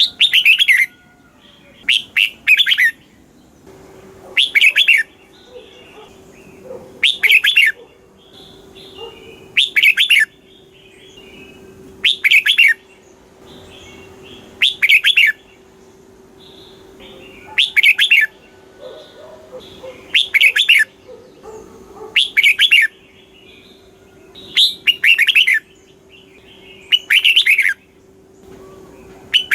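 Red-whiskered bulbul singing a loud, short phrase over and over, about one every two and a half seconds, with softer chirps between the phrases.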